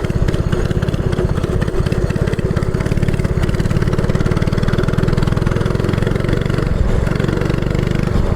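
Minibike's small engine running at a steady speed while riding, a fast, even pulsing exhaust note.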